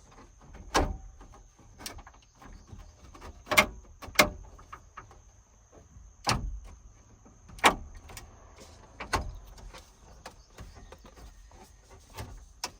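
Irregular sharp clicks and knocks, about a dozen, from a truck's dash trim and gauge cluster being handled and pushed into place.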